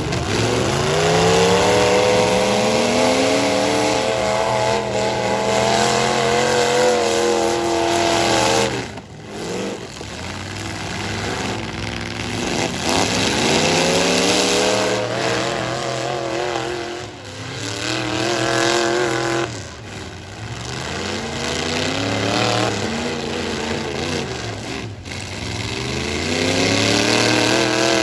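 Full-size stock pickup truck engines revving hard again and again in a demolition derby. The pitch climbs with each run at full throttle, then falls away sharply several times as the trucks back off before accelerating again.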